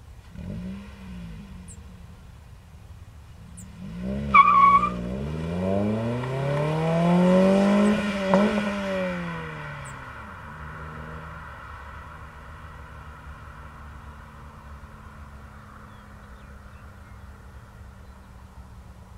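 Toyota Echo's 1NZ-FE four-cylinder with a TRD axle-back muffler, accelerating hard: a short chirp as it sets off, then the engine note climbs steadily for about four seconds before the pitch drops and it fades away. A brief rev blip comes first, and a faint steady engine hum remains afterwards.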